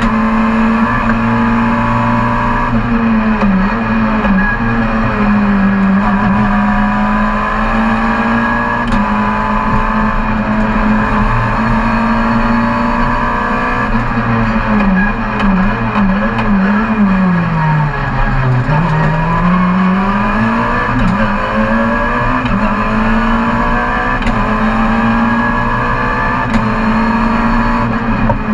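Rally car engine heard on board, pulling hard along a winding stage. Its pitch climbs and drops with gear changes and lifts, falls lowest about two-thirds of the way through, then climbs again.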